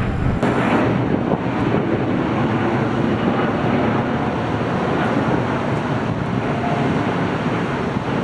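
Airbus A330neo jet airliner taking off, its engines at takeoff thrust making a steady, noisy rumble.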